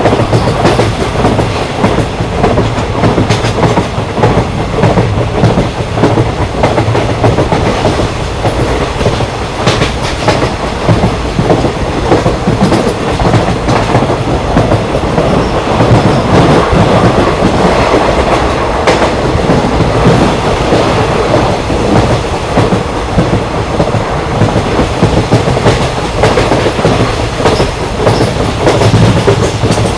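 Train running along the rails: a steady rumble of a moving railway carriage with the clickety-clack of wheels over rail joints.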